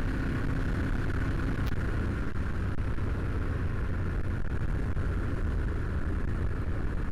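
Motorcycle engine running steadily at cruise with wind rush, heard through a helmet-mounted camera.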